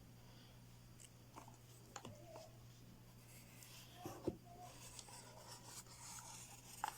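Faint scratching of a pen marking an outline on a cardboard box, with a few light taps and handling clicks over a low steady hum.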